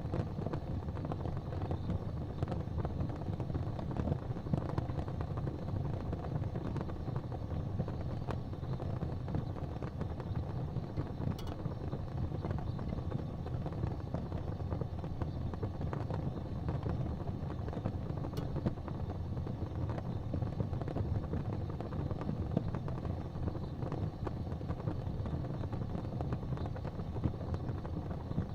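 Crackling fireplace fire: a steady low rumble with faint, scattered crackles and pops, two clearer ones about 11 and 18 seconds in.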